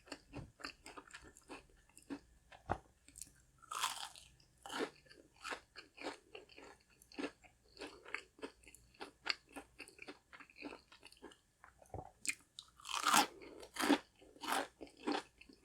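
Close-miked biting and chewing of crispy fried chicken nuggets: crunches of the breaded coating and steady chewing crackles, with bigger bites about four seconds in and again around thirteen seconds.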